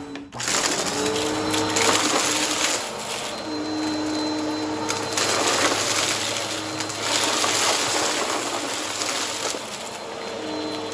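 Vacuum cleaner running and sucking up a crunchy mess, with rising and falling swells of pickup noise over the motor's hum, which comes and goes in pitch. The sound drops out briefly right at the start.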